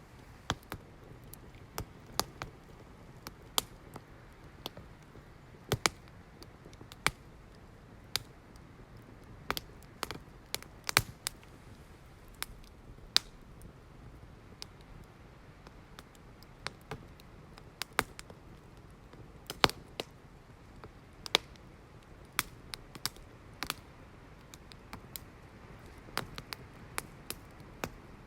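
Wood fire crackling: irregular sharp pops and snaps, roughly one or two a second and varying in strength, over a soft steady rush of burning.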